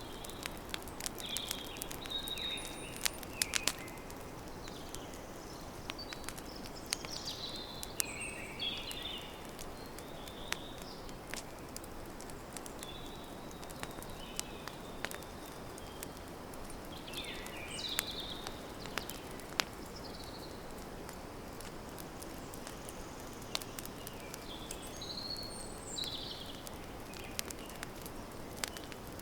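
Campfire crackling, with sharp pops scattered irregularly over a steady low hiss, while birds chirp in short calls several times in the background.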